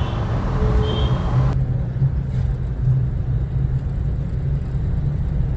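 Steady low rumble of a vehicle driving along a road. A brighter hiss drops away suddenly about a second and a half in.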